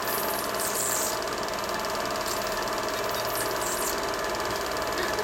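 Film projector running, a steady, rapid mechanical clatter over a constant hum.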